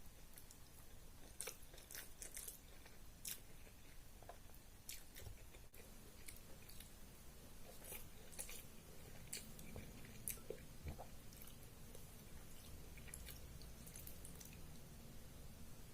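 Close-miked chewing of a rice-and-curry meal, faint, with many short wet mouth clicks scattered irregularly throughout.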